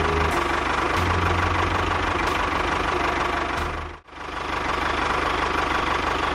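Tractor engine running with a steady knocking rumble. It cuts out for a moment about four seconds in, then picks up again.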